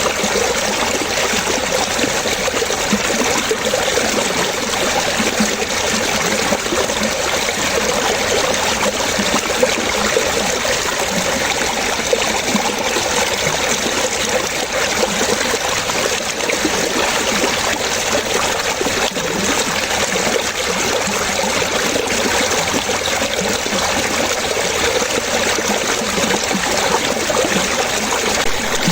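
Water splashing and trickling steadily, like a small stream running over stones.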